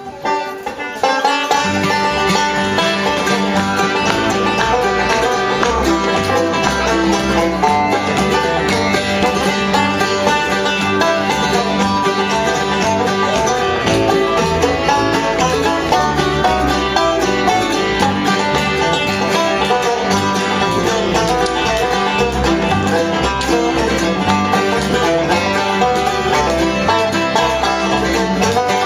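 Live bluegrass band playing an instrumental passage, with banjo prominent over guitar. The full band comes in about a second in.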